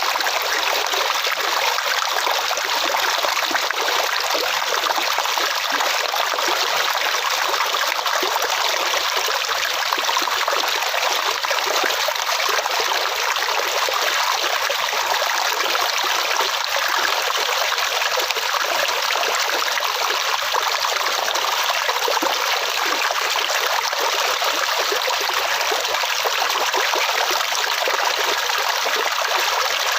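Flowing water running steadily like a stream, an even, unbroken trickling rush with little low rumble.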